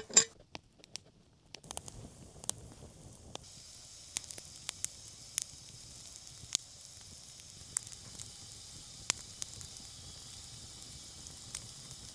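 Small campfire of damp deadwood crackling, with scattered sharp pops and, from about three seconds in, a steady high hiss.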